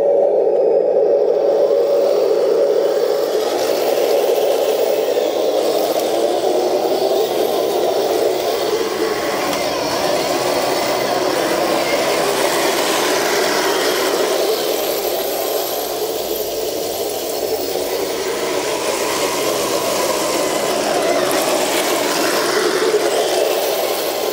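RC Leopard tank's electric drive motors and gear transmission whining as it runs, the pitch wandering up and down with speed, with a rattle from the running gear.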